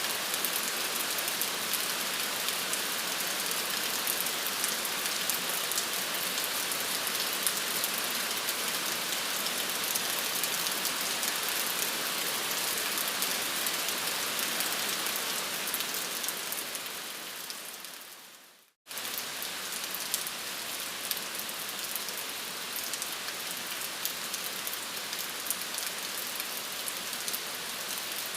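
Steady rain falling, with scattered drop ticks. About two-thirds of the way through it fades out to a moment of silence, then cuts straight back in at full level.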